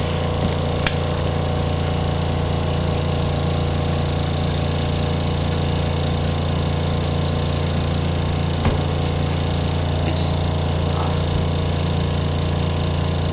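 Spin dryer of a compact twin-tub washing machine running with a steady motor hum as it spins a wet jacket, the load off balance, with a couple of brief knocks.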